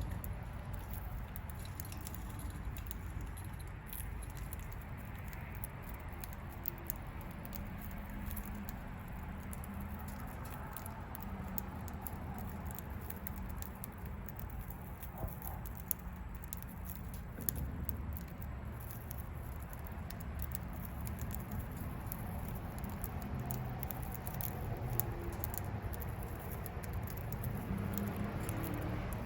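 Budgie being hand-fed: faint pattering, scratching and small clicks over a steady low hum.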